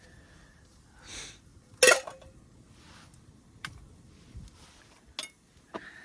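A few sharp clinks and knocks of camp cookware or utensils being handled; the loudest comes about two seconds in, with a short ring after it.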